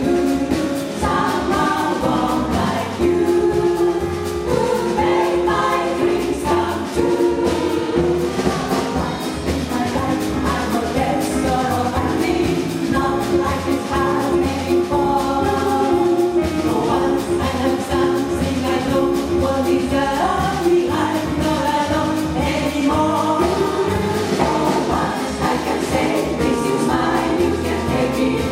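Jazz vocal chorus singing in close harmony over a swinging rhythm section of piano, bass and drums.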